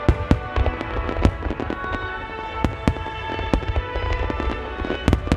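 Fireworks display: shells bursting in quick, irregular succession, a dense run of sharp bangs with several especially loud ones, over music playing throughout.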